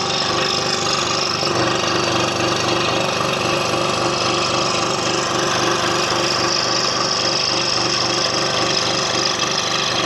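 Scroll saw running steadily, its blade cutting through a wooden jigsaw puzzle.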